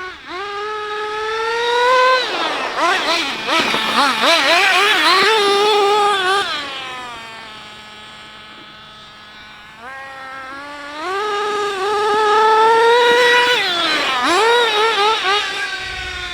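Team C Stoke N RC car's nitro engine at high revs with quick throttle changes, dropping to a steady idle about seven seconds in, then revving up again at about ten seconds and wavering on and off the throttle near the end.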